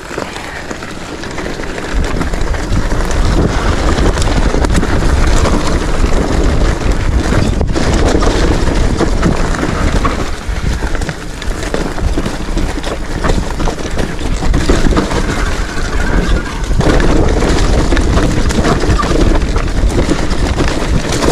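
Motorcycle running with heavy wind buffeting the microphone: a loud, continuous rumble with no clear engine note.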